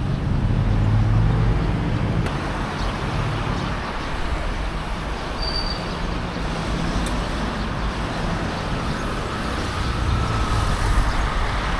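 Street traffic going by: a steady wash of engines and tyres, with vehicles passing close in the first couple of seconds and again about ten seconds in.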